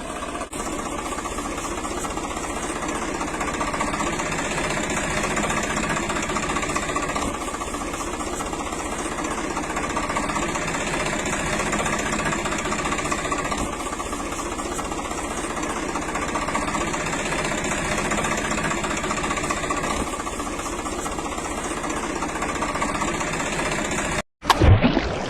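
An engine-like motor running steadily at a constant pitch, cut off abruptly near the end and followed by a short, louder sweeping burst.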